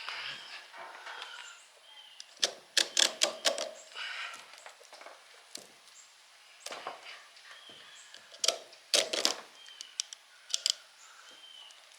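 Clicks, snaps and scrapes of hand work pulling apart an old electric motor's windings and insulation, coming in a few short flurries with the loudest about three seconds in and again about nine seconds in. A bird chirps repeatedly in the background.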